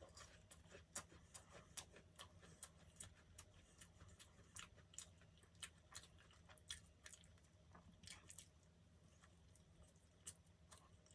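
Faint close-up chewing of soft food, with irregular wet mouth clicks a few times a second.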